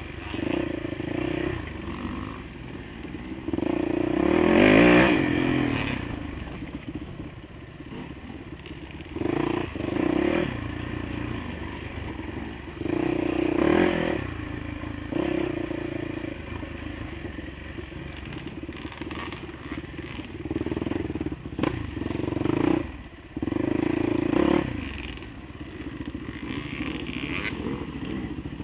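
Dirt bike engine revving up and down while being ridden over rough track, the throttle opened in repeated bursts and the engine pitch rising and falling. It is loudest about five seconds in.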